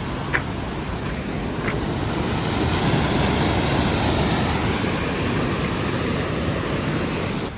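Steady rushing of a fast-flowing river or waterfall, mixed with wind buffeting the microphone. It swells a little partway through.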